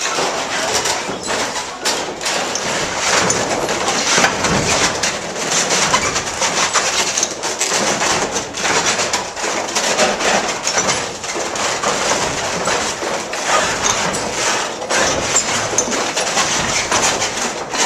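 Water-powered sawmill running, its wooden gears driving the saw, with a dense, irregular clatter of knocks.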